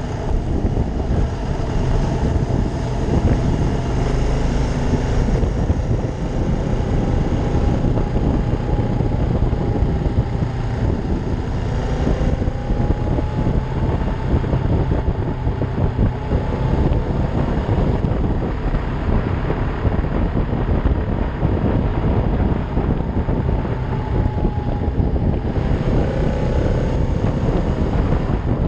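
Ducati Monster 620's air-cooled L-twin engine running steadily on the move, its note drifting gently with speed, under heavy wind noise on the microphone.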